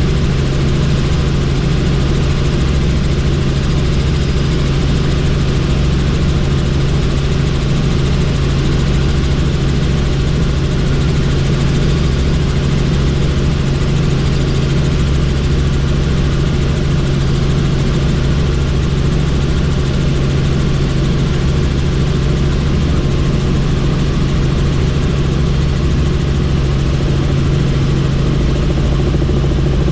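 Helicopter in flight heard from inside the cabin: a steady engine and rotor drone with a strong low hum that does not change.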